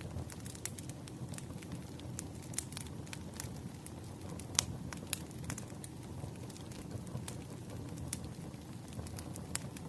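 Firewood burning: irregular crackles and sharp pops over a low, steady rumble, the loudest pop about halfway through.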